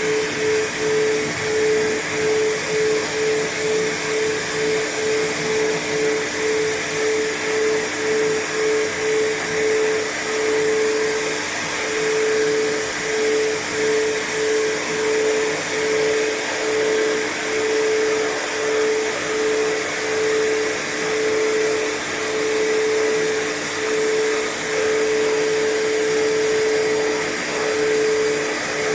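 Pet grooming blow dryer running steadily, its motor tone wavering about twice a second.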